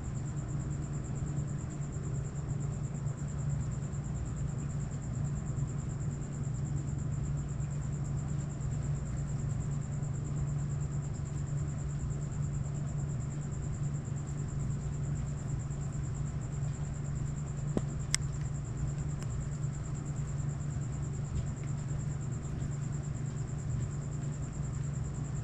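Steady low hum under a continuous high, finely pulsing chirring of insects such as crickets; two faint clicks about eighteen seconds in.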